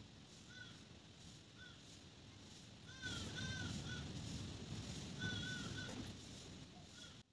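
A bird calling again and again: short arched calls, singly and in twos and threes, over a low background rumble that grows louder about three seconds in.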